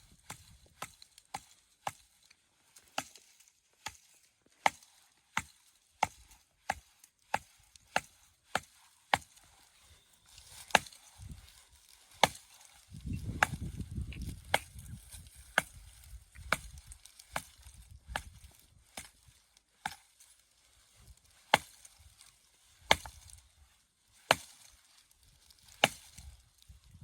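An axe chopping wood: sharp, separate blows, about one and a half a second at first, then slower, roughly one a second. A low rumble runs under the blows for a few seconds in the middle.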